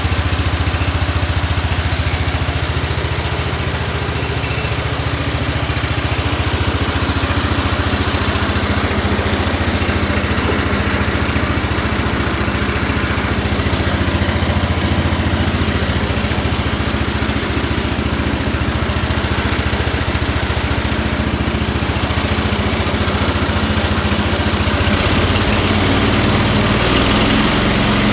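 IH Cub Cadet 1000 garden tractor's single-cylinder Kohler engine running steadily. Its sound shifts and grows a little louder near the end.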